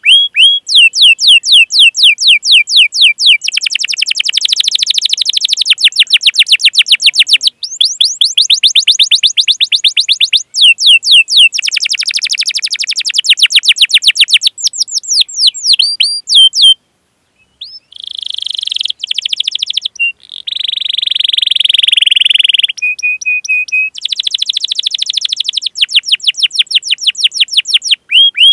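Domestic canary singing a long song of chirping 'cuit cuit' notes: fast runs of repeated sweeping notes alternate with dense rolling trills. About two-thirds of the way through comes a brief pause, then a buzzy passage and a short steady whistle before the rapid notes return.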